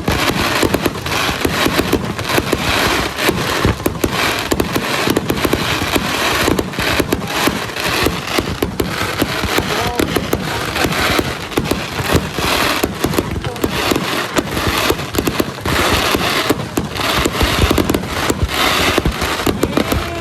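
Aerial fireworks display going off in a dense, unbroken barrage of bangs and crackling, loud throughout.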